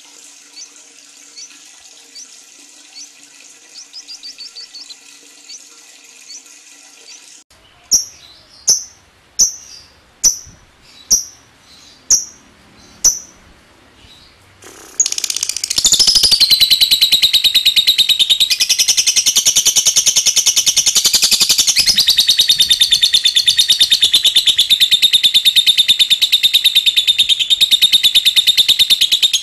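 Lovebird calling: faint chirps at first, then seven loud, sharp calls evenly spaced, then from about halfway a loud, long, unbroken rapid rattling trill, the 'ngekek' song that fanciers prize.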